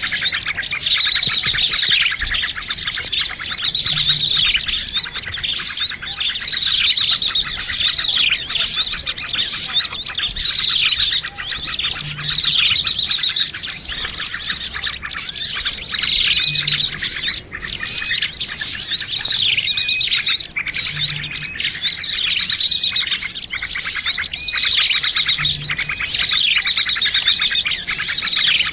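Dense, busy chorus of many small birds chirping and twittering over one another without a break: a mixed bird-lure (pikat) call recording meant to draw in small birds.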